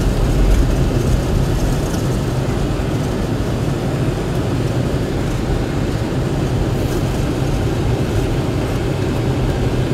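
Steady engine and road rumble of a vehicle being driven.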